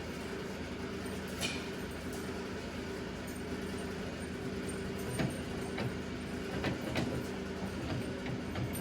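Steady low mechanical hum from a running machine in the workshop, with a few light clicks and taps from tools or parts being handled.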